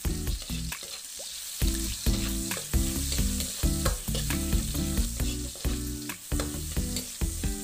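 Ginger and onion sizzling in hot oil in an aluminium wok, with a metal ladle scraping and clicking against the pan as they are stirred.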